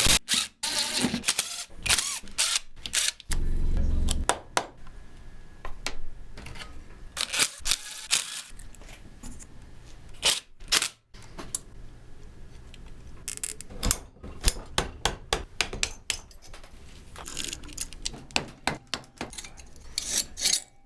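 Hand tools and metal engine parts being worked during the top-end disassembly of a Honda CT90's engine: an irregular run of clicks, clinks and knocks, with a louder spell of handling about three seconds in.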